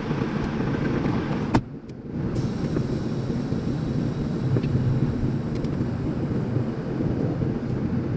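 Semi-truck's diesel engine running steadily at low speed while manoeuvring to park. A sharp click about a second and a half in is followed by a brief dip in the sound before the engine noise returns.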